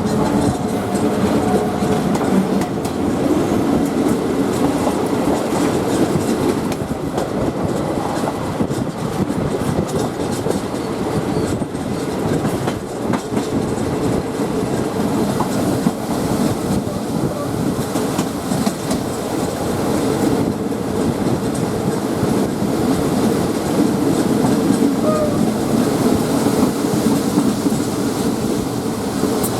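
A State Railway of Thailand train running steadily along the track, its wheels clacking over the rail joints.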